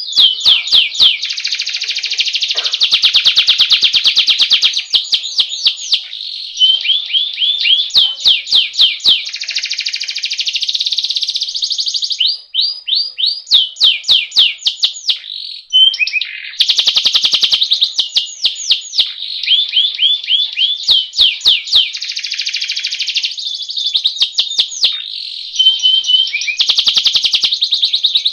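Domestic canary singing a long rolling song: fast series of repeated sweeping notes run together into trills, with short pauses between phrases.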